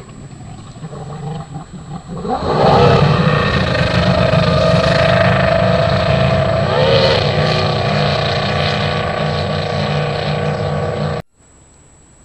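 Mercury racing outboard on an STV drag boat, running low and then revving up hard about two seconds in and holding at high throttle. It cuts off suddenly near the end.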